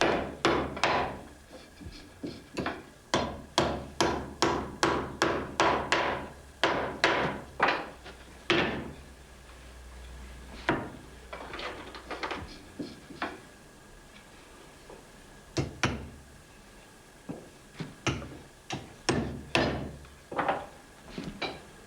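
Hand hammer striking wood: a steady run of blows about two a second, then a stretch of sparser, lighter taps, then another quick run near the end. The sound of the wooden frames being nailed in place on the saddle bridge.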